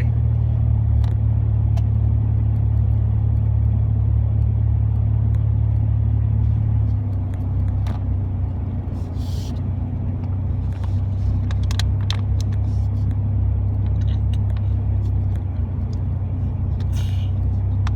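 Steady low drone of a pickup truck's engine and road noise heard from inside the cab while driving, easing slightly in pitch and level about seven seconds in, with a few faint scattered clicks.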